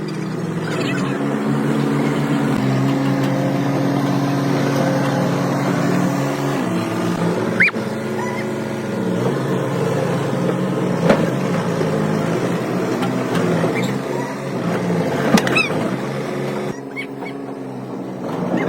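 A machine running steadily, its pitch shifting a few times, with a few sharp clicks.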